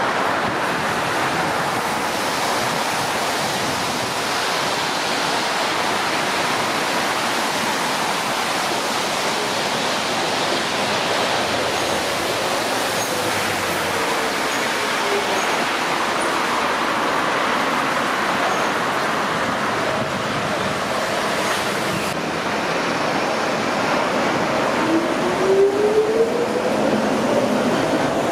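Docklands Light Railway train at a station, heard through a steady rushing noise; a few seconds before the end its traction motors start a whine that rises in pitch as the train accelerates away.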